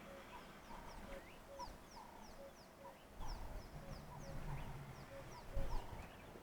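Several birds calling at once: a steady run of short low notes about twice a second, with higher notes and quick falling chirps over them. A few low thuds come through, the loudest near the end.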